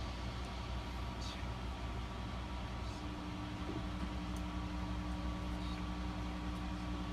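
Steady mechanical hum with constant low tones, joined by a further steady tone about three seconds in, and a few faint ticks.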